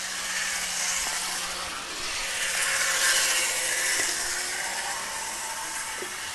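Model train running on its track at full speed, a steady rolling hiss with a motor hum that swells as the train comes close, loudest about three seconds in.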